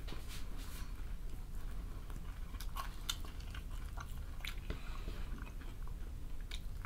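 People chewing crispy breaded fried chicken wings, with faint scattered crunches and mouth clicks.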